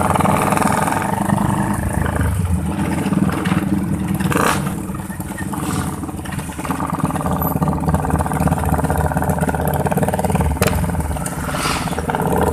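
Motorcycle engine with an aftermarket racing exhaust running loudly, the note dropping off somewhat in the middle and building again, with a few sharp cracks.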